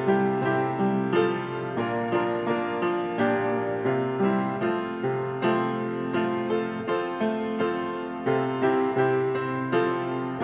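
Solo piano music: a gentle, steady stream of notes over a bass line.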